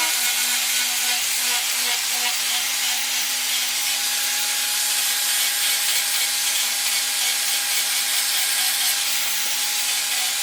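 A power tool running steadily, with a continuous abrasive hiss over a steady motor hum, as in grinding or sanding work on a knife.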